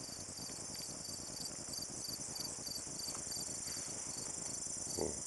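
Insect chorus: a steady, high-pitched chirring with a regular chirp repeating a little more than twice a second.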